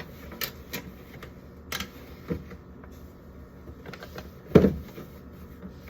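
Scattered clicks and knocks of condiment bottles being set into a fridge door shelf, with one heavier knock about four and a half seconds in.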